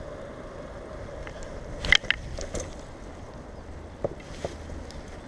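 Bicycle being ridden: a steady rush of tyres and wind, with a few sharp clicks and rattles from the bike. The loudest comes about two seconds in, and two lighter ones about four seconds in.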